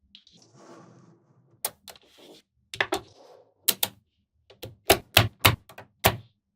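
Small magnetic balls clicking sharply as they snap together one by one, in short runs with the most near the end, and a softer rattle of balls shifting in between.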